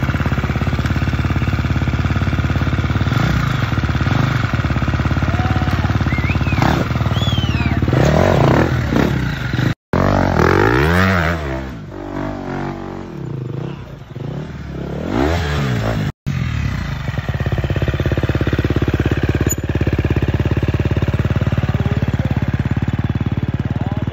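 Two-stroke enduro motorcycle engine revving up and down in repeated blips as the bike is ridden over obstacles. The sound cuts out briefly twice, about ten and sixteen seconds in, where separate clips are joined.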